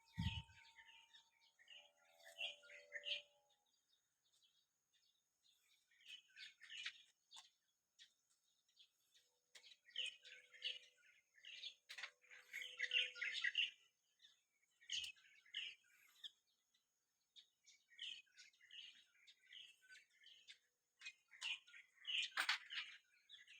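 Small birds chirping in irregular flurries of short high notes, with quiet gaps between, busiest near the middle and again near the end. A faint steady high tone runs underneath, and a low thump comes right at the start.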